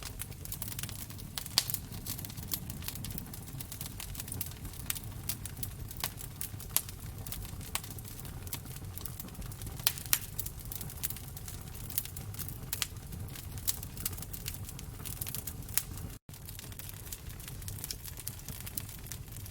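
Wood fire crackling and popping in a fireplace: irregular sharp snaps over a low steady rumble. The sound cuts out completely for a split second about sixteen seconds in.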